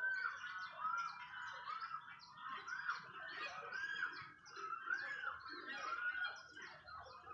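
Birds calling: a short note that rises and falls repeats roughly once a second over a busy chorus of higher chirps.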